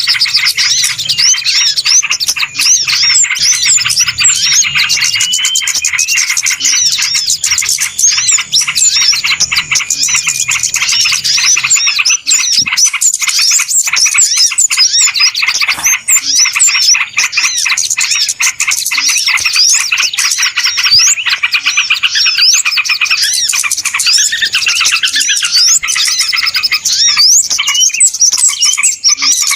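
Dense, noisy chorus of many small birds chirping and twittering at once: rapid, overlapping high calls and quick up-and-down whistled sweeps with no pause, the kind of busy flock sound used as a bird lure.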